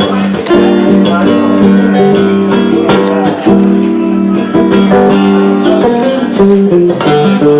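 Guitar playing an instrumental break in a folk-rock song: plucked and strummed chords with single notes picked over them, changing chord every second or so.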